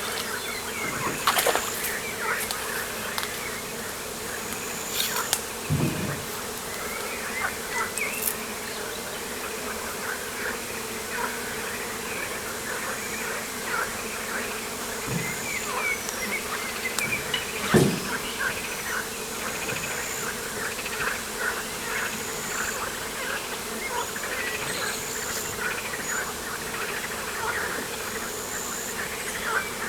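Insects buzzing steadily by the water, with a busy chatter of short bird chirps and a few soft low knocks.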